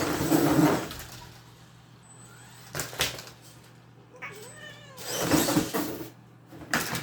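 A pet cat meowing and yowling in several loud, rough calls, with one shorter wavering meow in between and a sharp knock about three seconds in.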